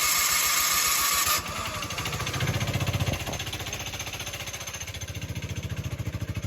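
Carter Brothers Grave Digger's small engine cranking on its starter with full choke and catching about a second and a half in, then settling into a low, evenly pulsing cold idle.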